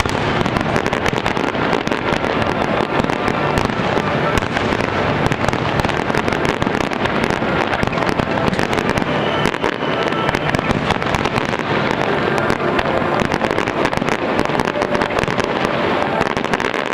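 Fireworks display: aerial shells bursting over the water, with dense continuous crackling.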